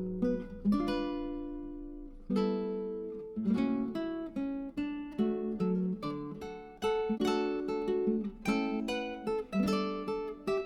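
Background music: acoustic guitar playing strummed and plucked chords that ring out and fade, with one long chord about a second in.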